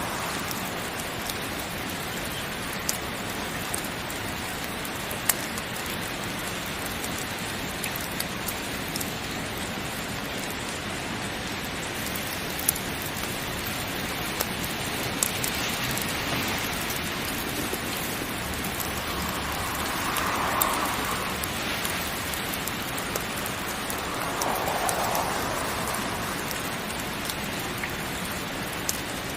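Heavy rain falling steadily, with scattered sharp pops throughout and a few soft swells in intensity.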